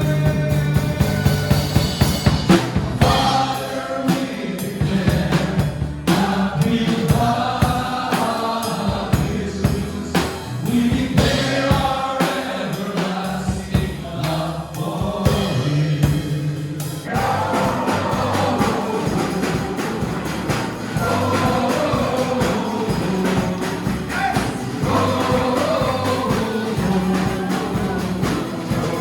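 Christian worship song: a group of voices singing together over a band with a drum kit.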